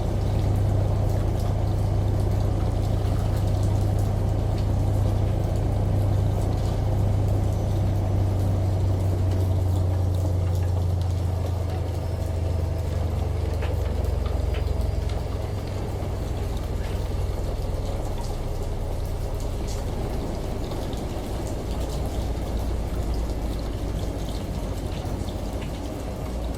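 Washing machine running with a steady low hum under water pouring in; the hum drops away a little past halfway, leaving running water with scattered drips and patters.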